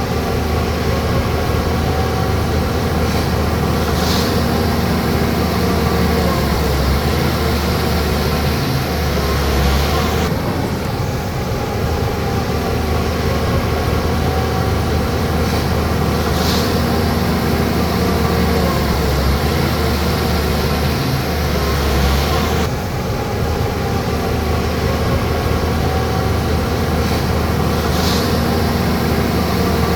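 Bulldozer's diesel engine running steadily under load, its pitch dipping and recovering in a cycle of about twelve seconds as it works. A short high squeak comes three times, about twelve seconds apart.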